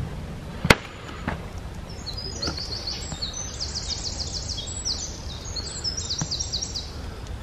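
A songbird singing in quick runs of fast repeated high notes, over a steady low outdoor rumble, with one sharp click a little under a second in.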